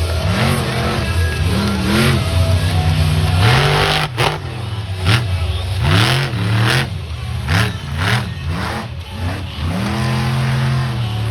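Monster truck engine revving hard in repeated bursts, its pitch rising and falling again and again, then held high near the end.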